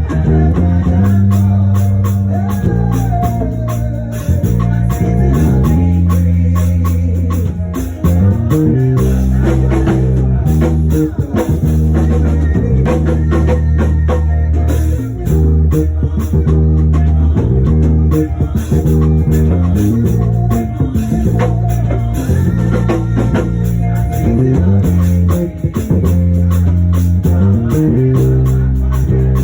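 Live church band playing an upbeat instrumental with a prominent bass guitar line, drum kit and guitar.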